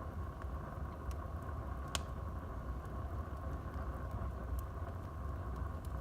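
Wood fire burning in a fireplace: a steady low rush with scattered sharp crackles and pops, the loudest about two seconds in.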